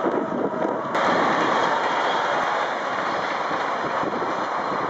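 Steady rumble of a Thalys high-speed train passing on the railway, mixed with wind on the microphone. It starts abruptly about a second in.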